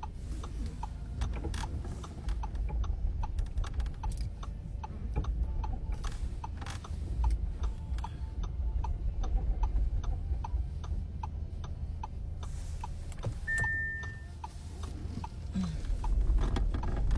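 Car turn-signal indicator ticking at an even pace over the low rumble of the car, with one short high beep about two-thirds of the way through.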